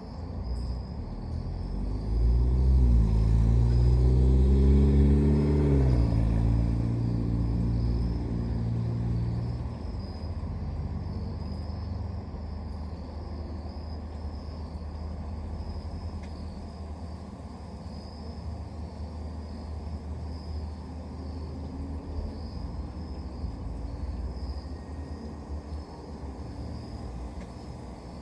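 A motor vehicle's engine rumbles past, loudest from about two to six seconds in. Its pitch climbs, drops sharply near six seconds, then holds lower and fades out around ten seconds. Crickets chirp steadily throughout.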